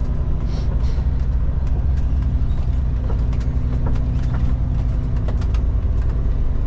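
Kenworth K200 cabover road train's Cummins diesel engine running steadily at low speed while the truck manoeuvres, heard from inside the cab with the windows up. Light clicks and rattles come and go over the engine.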